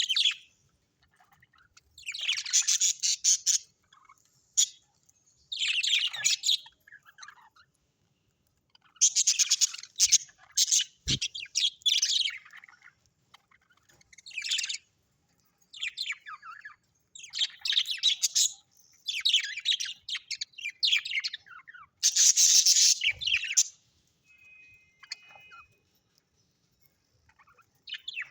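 Birds chattering in short bouts of rapid, high chirps with brief pauses between them, and a short steady whistled note near the end.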